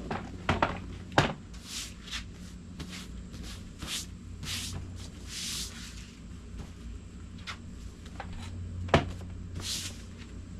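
Upholstery work noises on a vinyl-covered boat seat cushion: short rustling swishes of the vinyl being handled, with several sharp knocks or clacks, the loudest about a second in and again near the end.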